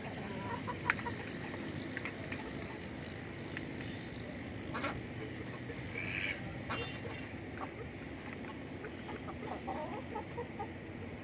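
Domestic ducks and chickens feeding, with scattered short quacks and clucks over a steady background hiss and a few sharp knocks, the loudest about a second in.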